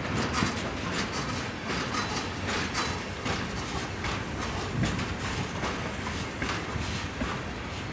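Train cars rolling past, their wheels clicking over the rail joints in an uneven clickety-clack, over a steady rolling rumble.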